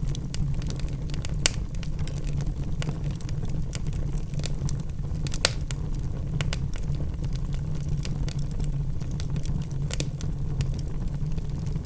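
Logs burning in a fireplace: a steady low rumble of the flames with scattered sharp crackles and pops, two of them louder, one about a second and a half in and one about five seconds in.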